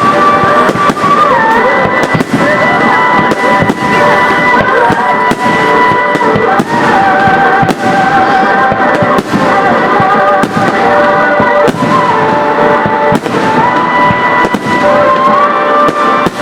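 Fireworks bursting in rapid succession, many sharp bangs a second, over music with long held notes that step from one pitch to another.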